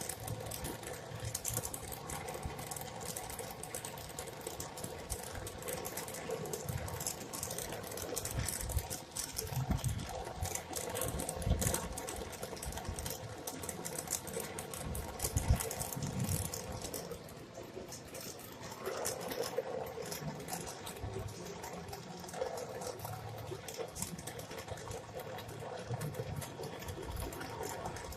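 Brazing torch flame hissing steadily while copper refrigerant tubing on a household fridge is brazed, with a few knocks from handling the work.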